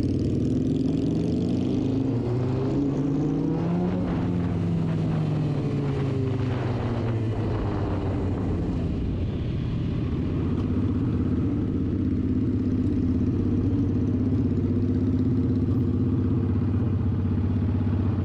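2006 Suzuki GSX-R 750's inline-four engine heard from the rider's seat, its note rising and falling in the first half as the bike speeds up and slows through traffic. It then settles into a steady note, idling at a stop near the end.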